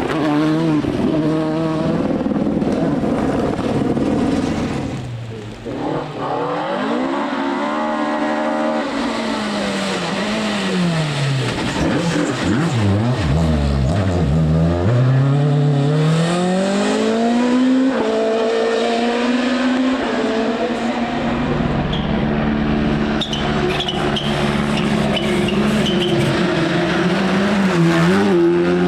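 Rally car engines revving hard, their pitch climbing and falling repeatedly as they accelerate and back off through the gears. There is a brief drop about five seconds in, and the engine note changes abruptly twice near the end.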